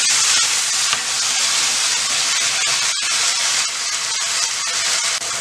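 Chopped banana flower sizzling in gingelly oil in a clay pot as it is sautéed and stirred, a steady hiss that breaks off for an instant about three seconds in.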